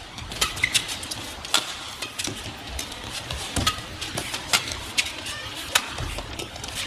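Badminton rally: sharp, irregular strikes of rackets on the shuttlecock, about one every half second to a second, with short squeaks of shoes on the court over steady arena crowd noise.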